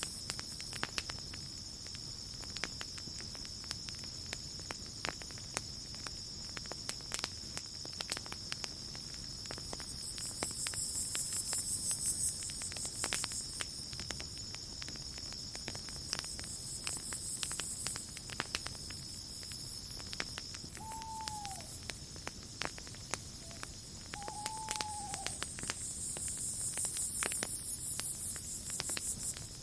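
Campfire crackling with frequent sharp pops, over a steady chirring of crickets that swells into louder pulsing bouts twice. A steady high insect tone drops out about two-thirds through, and two short, falling call notes sound shortly after.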